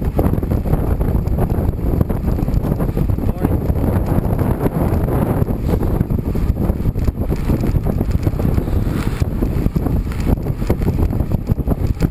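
Wind buffeting the microphone of a camera riding along on a moving road bike: a steady, low, fluttering rush.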